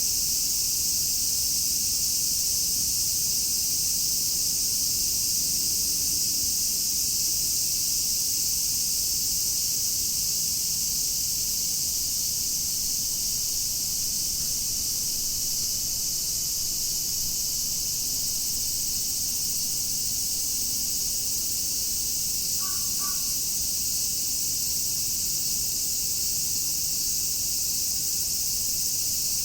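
Dense chorus of cicadas (semishigure), a steady high-pitched buzzing. A bird gives two short calls about three-quarters of the way through.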